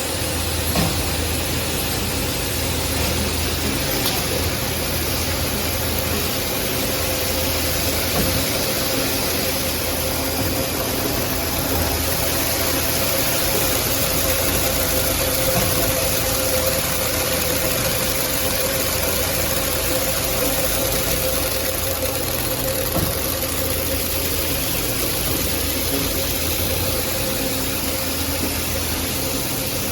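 Coil nail production line machinery running steadily: a dense, unbroken mechanical noise with a constant hum under it.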